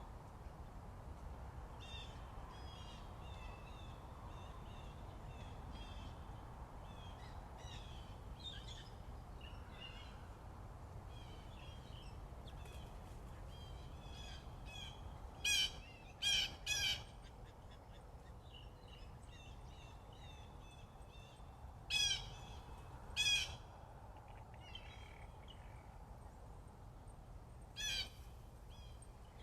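Morning birdsong: many small birds chirping and singing throughout, with six loud, harsh calls from another bird, two close together just past the middle, two more a few seconds later and one near the end.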